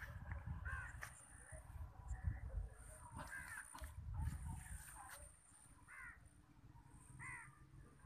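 A bird calling several times, short arched calls spaced a second or more apart, over a low rumble.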